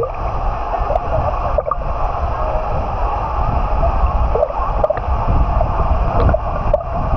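Steady rush of splashing, gurgling water at a water park slide, with a low rumble underneath.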